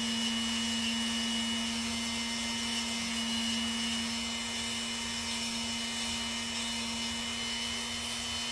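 A small rotary nail grinder running at a steady pitch while filing down a parrot's toenail.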